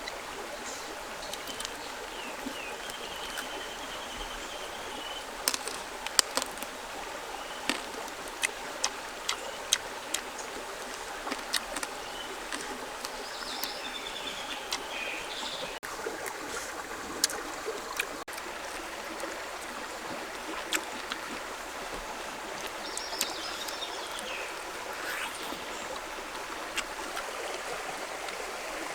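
Steady rushing of running water, like a small stream, with scattered sharp clicks and knocks. A few short bird chirps come through near the start, midway and again later.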